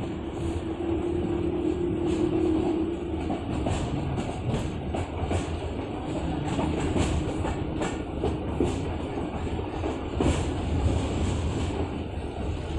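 Train running along the track: a steady rumble with many clicks of the wheels over the rails, and a faint hum during the first few seconds.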